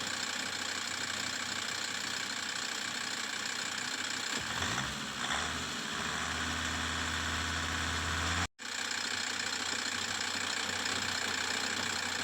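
Land Rover Td5 five-cylinder turbodiesel idling steadily, running to circulate a cleaner through its oil-contaminated cooling system. About four and a half seconds in a deeper low hum rises in and holds until the sound cuts out briefly near eight and a half seconds, then the idle carries on.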